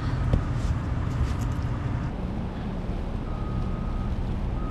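Steady low outdoor rumble, with a few light clicks and rustles of handling in the first second and a half. A faint thin high tone sounds briefly, on and off, in the second half.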